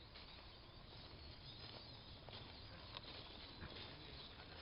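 Near silence: faint steady background noise with a few soft ticks.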